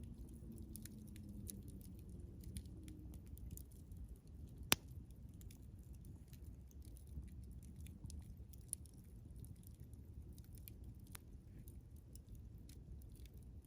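Wood campfire crackling with scattered small ticks, and one loud sharp pop a little under five seconds in, with a couple of smaller pops later.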